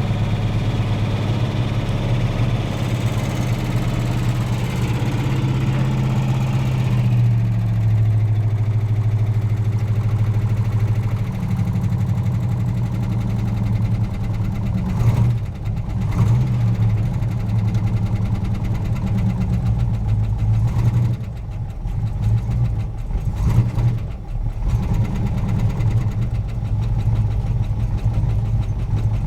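Plymouth Barracuda's engine idling steadily after a cold start. About seven seconds in the higher hiss fades, and there are a few short uneven moments between about fifteen and twenty-four seconds in.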